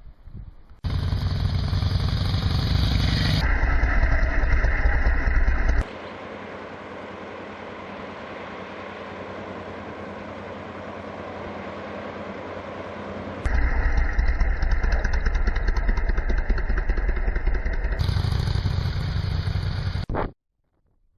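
Motorcycle engine running steadily while riding, mixed with wind noise, in abruptly cut stretches. In the middle stretch the engine drops away and mostly wind rush remains, then the engine comes back before everything cuts off near the end.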